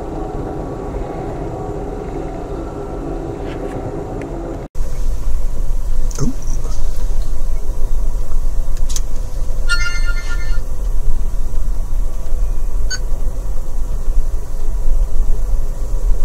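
Passenger train running at speed, heard from inside the car: a steady rumble of wheels on rail. About five seconds in, the sound cuts abruptly to a louder, deeper rumble, with a few sharp clicks and a brief high-pitched tone about ten seconds in.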